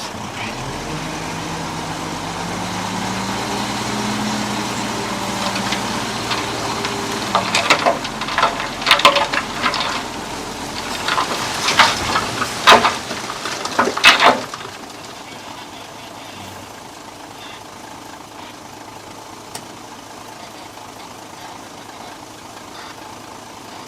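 Heavy diesel earth-moving machine's engine running under load and rising slightly in pitch, then a run of loud metallic clanks and bangs for several seconds, after which the engine settles back to a quieter steady idle.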